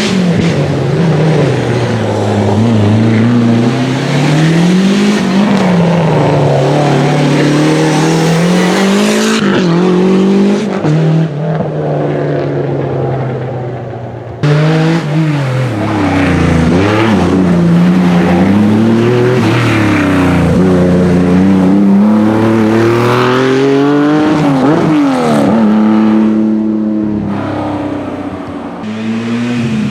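Historic rally car engine working hard on a special stage, its revs climbing and dropping again and again through gear changes. The sound breaks off abruptly about halfway and comes straight back with the same rising and falling engine note.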